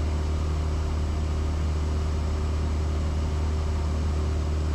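Cessna 172S's four-cylinder Lycoming engine and propeller droning steadily in cruise, heard inside the cabin as a constant low hum.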